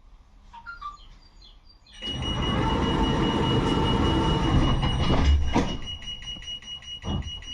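71-628 tram making a loud rushing noise with a steady high-pitched tone that starts suddenly about two seconds in. It eases off after a knock near the end, leaving a rapid, even ticking under the tone.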